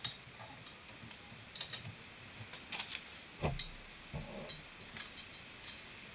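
Small metallic clicks and clinks at irregular intervals, from a valve spring compressor and valve parts being handled on a Subaru EJ20 cylinder head during valve removal, with a duller knock about three and a half seconds in.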